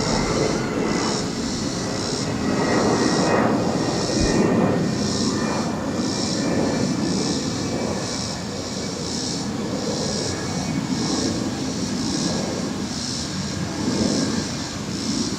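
Airliner taking off, heard as a steady far-off rumble that swells a few seconds in, with a faint whine above it. A separate high-pitched buzz pulses about twice a second.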